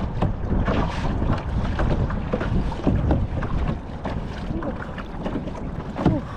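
Wind buffeting the microphone on a kayak on open water, a steady rumble, with irregular water splashes from paddle strokes.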